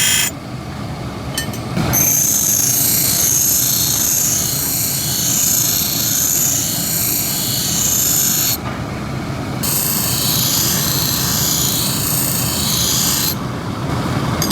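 Power grinder grinding a steel chisel blade: a steady motor hum with two long passes of high-pitched grinding hiss, each several seconds long, broken by a short lull when the blade is lifted off.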